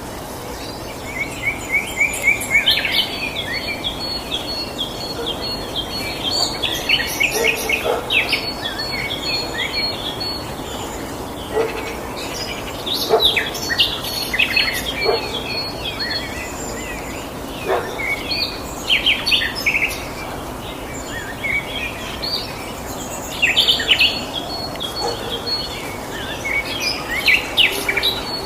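Several birds singing and calling in a continuous chorus of short chirps and rapid trills, over a steady background hiss.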